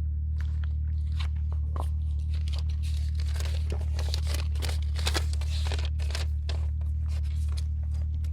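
Crinkling, tearing and scraping as items from a geocache ammo can are handled, many short rustles and clicks over a steady low hum.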